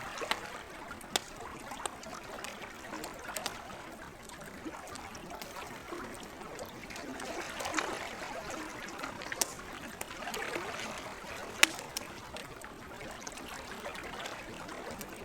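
Wood campfire crackling with scattered sharp pops, over gently trickling and lapping lake water. The loudest pop comes a little past the middle.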